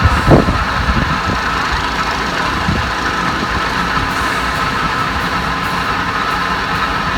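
An engine running steadily at an even speed, with a constant whine over a low rumble and one brief knock near the start.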